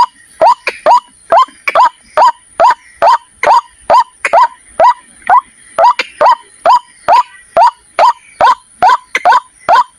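White-breasted waterhen calling: a fast, steady series of short, loud notes, each sweeping quickly up in pitch, about two a second. It is the repetitive call used as a trapping lure.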